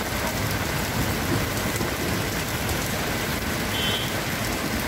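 Heavy monsoon rain falling steadily on the flooded road and the roofs of parked cars.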